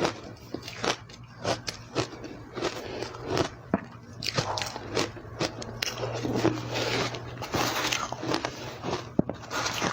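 Close-miked crunching of crushed, powdery ice being bitten and chewed, with a run of sharp crunches that thickens into steady chewing about four seconds in.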